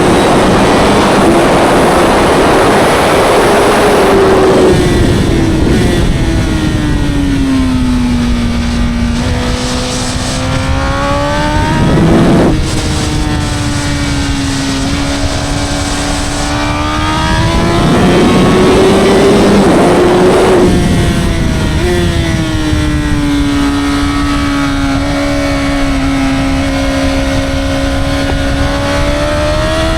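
Honda CBR1000RR's 999cc inline-four engine and exhaust under hard track riding. The pitch climbs under throttle and falls off several times over. It is loudest near the start, with a short sharp surge about twelve seconds in.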